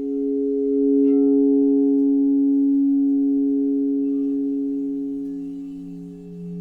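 Singing bowls ringing in steady, nearly pure overlapping tones that swell and fade; a lower-pitched bowl comes in about four seconds in.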